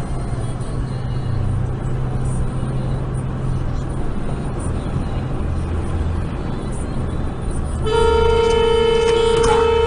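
Steady engine and road noise from inside a moving vehicle, with a low engine hum. About eight seconds in, a vehicle horn starts blaring and is held as one long steady note.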